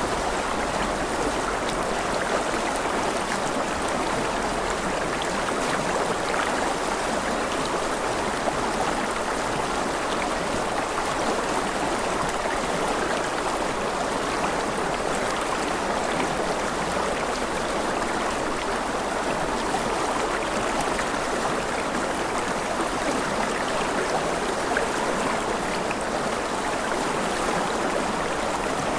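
A stream of water flowing steadily: an even, unbroken water noise with no distinct events.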